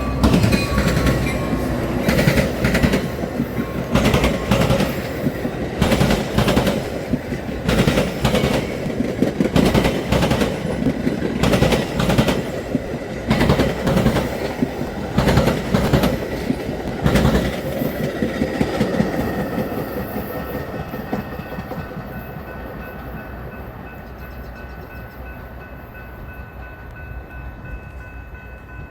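A passing train's wheels clatter over the rail crossing diamond and the rail joints in a run of sharp, irregular clacks. The clatter thins out about two-thirds of the way through, leaving a fading rumble as the train moves off.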